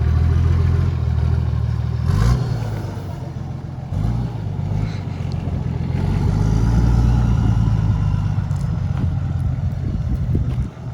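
A four-wheel drive's engine running at low revs while crawling over rocks, its note rising and falling gently with the throttle. A sharp knock comes about two seconds in, and a few lighter clicks follow near the end.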